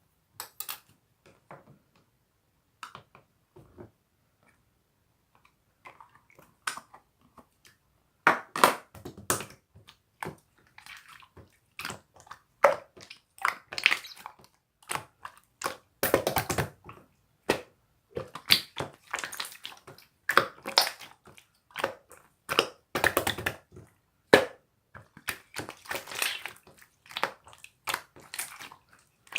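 Slime being squished and kneaded by hand, giving a run of sticky clicks and pops. These are sparse at first and come thick and fast from about eight seconds in.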